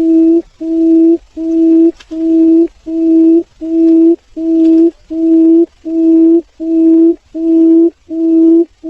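Barred buttonquail calling: a low, steady-pitched hooting note repeated evenly, about every 0.6 seconds.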